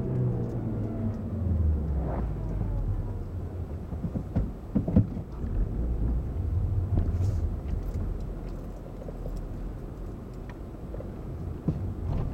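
Car engine heard from inside the cabin, its revs falling as the car slows down after a full-throttle run, then settling into a low steady rumble at low speed. A few sharp knocks sound about two seconds and about five seconds in.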